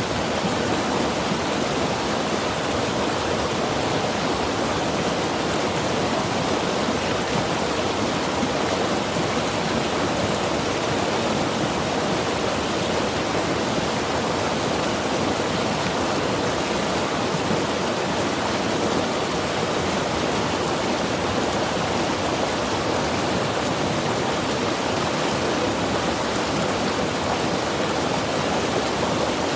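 Mountain river rushing steadily over rocks, a constant even roar of moving water.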